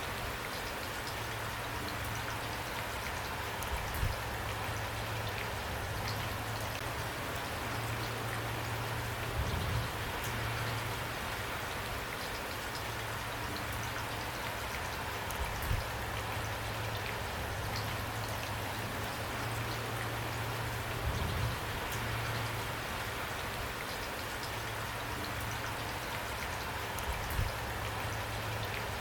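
Steady rain falling, with a brief low thump about every five to six seconds.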